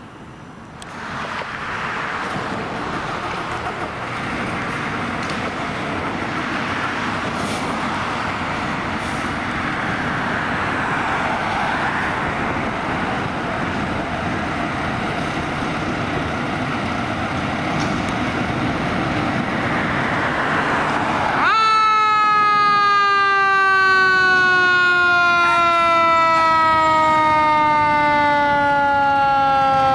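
Fire apparatus responding: about twenty seconds of heavy vehicle and road noise, then a mechanical siren spins up sharply and winds slowly down in pitch, with a brief rise again near the end.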